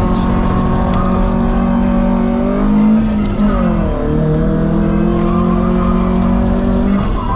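Car engine held at high revs while drifting. Its pitch rises, drops briefly a little past the halfway point, then climbs and holds steady, with tyres squealing.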